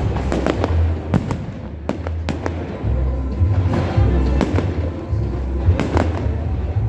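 Fireworks display going off: a rapid string of bangs and crackling reports with deep booms underneath, over music.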